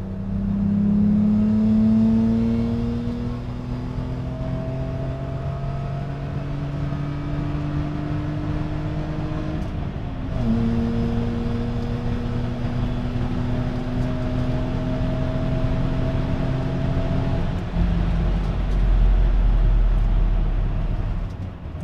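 Volvo V90 with an aftermarket exhaust (headers, twin 2.5" pipes, metallic sport cat, two mufflers) under way and accelerating. The engine note climbs steadily, drops at a gear change about ten seconds in, then climbs again. Near the end the pitch gives way to a deep, low drone.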